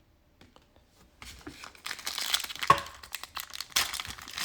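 A 2020-21 Prizm basketball card pack wrapper crinkling and tearing as it is ripped open, starting about a second in, with one sharper crack partway through.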